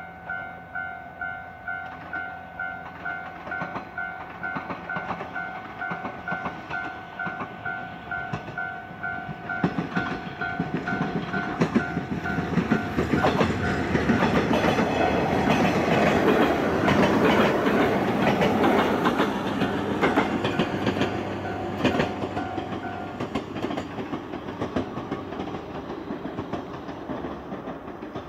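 Level crossing warning bell ringing in a steady repeating two-tone ding as a deadhead electric multiple-unit train passes. The passing train adds a rising rush of wheels on rail with rapid clickety-clack over the rail joints, which swells to its loudest midway and then fades. The bell stops near the end, after the train has gone by.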